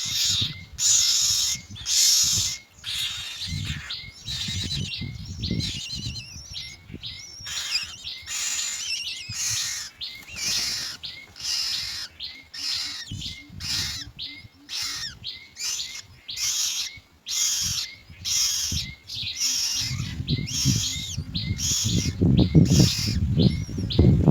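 Myna chicks in the nest begging for food with a steady run of short, rasping calls, roughly two a second. A low rumble builds near the end.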